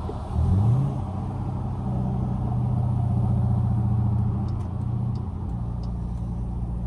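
Straight-piped Dodge Durango exhaust: a short rev that rises in pitch about half a second in, then a steady low drone under light throttle that drops lower about five and a half seconds in.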